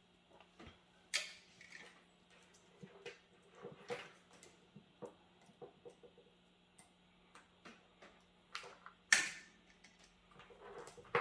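Scattered clicks and light knocks of desktop PC parts being handled and unclipped during a teardown, with two sharper clacks about a second in and about nine seconds in, over a faint steady hum.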